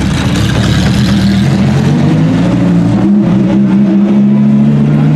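Lamborghini Huracán's 5.2-litre V10 engine running loud at steady, raised revs, with a brief dip and a change in pitch about three seconds in.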